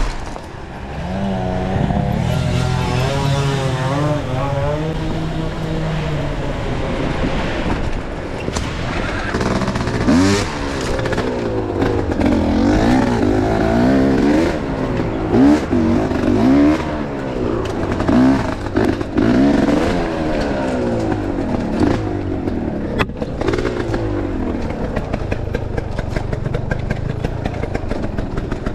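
Enduro motorcycle engine running under load and revving up and down over and over, with quick rises and falls in pitch through the middle of the stretch.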